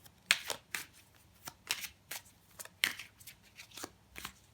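Tarot cards being handled and shuffled: a run of sharp, irregular card snaps and slaps.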